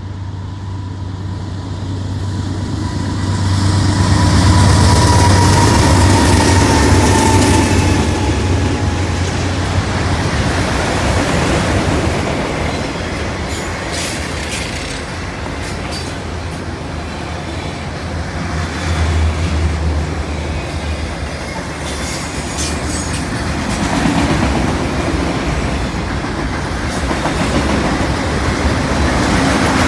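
CN freight train passing, with the diesel locomotives' deep engine hum loudest several seconds in. The freight cars then roll by, their wheels clacking and squealing on the rails.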